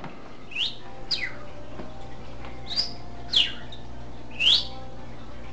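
English budgie chirping: five short, sharp calls, each a quick sweep in pitch, the last one the loudest, over a steady low hum.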